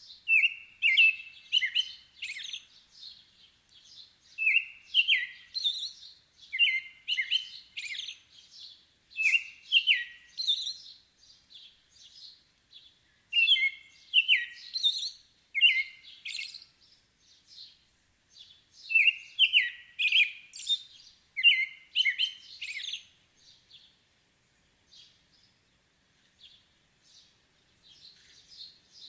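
Birdsong: short, high phrases of a few quick chirping notes, repeated every second or two, with a few longer pauses.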